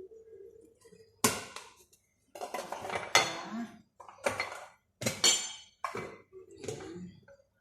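A spoon knocking and scraping against dishes and a spice container, with several sharp clinks and a rattle in between, as spice is spooned out.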